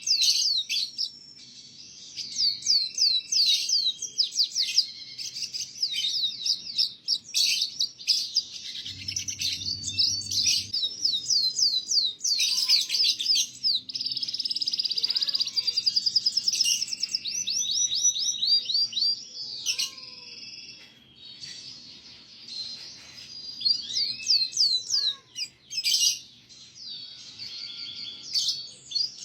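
Domestic canary singing a long, fast, trilling song: rapid runs of repeated high notes and sweeping chirps, broken by short pauses.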